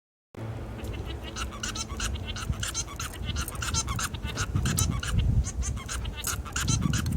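Male society finch (Bengalese finch) singing: a rapid string of short notes that starts abruptly a moment in, over a steady low rumble.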